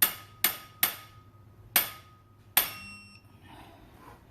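Click-type torque wrench snapping five times with a sharp metallic click and brief ring, tightening the last cylinder head bolt of a Toyota 2ZR-FE engine to torque.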